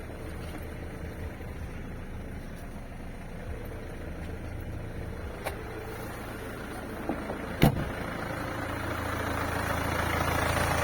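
Mercedes-Benz C-Class engine idling with the engine knock it is being recorded for. A single sharp thump comes about three-quarters of the way through, and the engine grows louder near the end.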